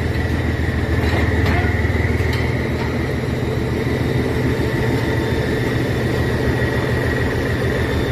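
A large engine running steadily with a low rumble and a thin, steady high whine, with a few faint clicks about a second in.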